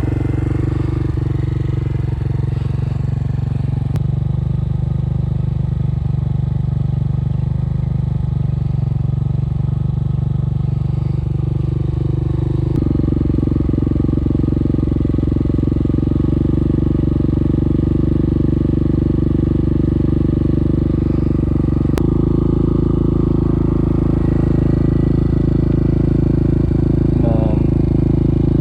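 A Yamaha TT-R125 dirt bike's single-cylinder four-stroke engine runs steadily, its note changing abruptly three times, at about four, thirteen and twenty-two seconds in.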